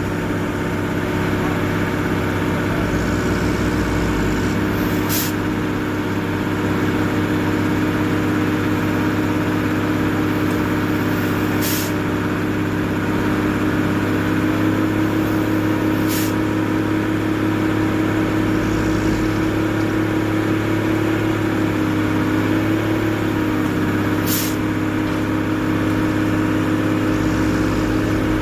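Heavy tow truck engine running steadily, its pitch rising slightly about halfway through. A few brief, sharp high hisses cut in.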